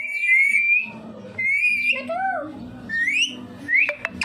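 A parrot whistling: a wavering whistle at the start, a lower gliding call about two seconds in, then short whistles that rise sharply in pitch about three and four seconds in.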